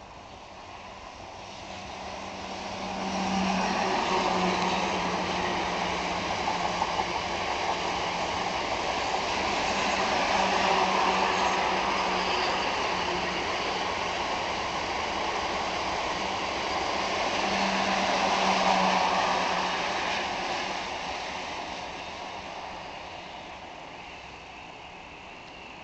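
A pair of coupled Class 444 electric multiple units passing at speed: wheels running on the rails with a steady low hum. The sound builds over a few seconds, stays loud for most of twenty seconds, then fades away as the train recedes.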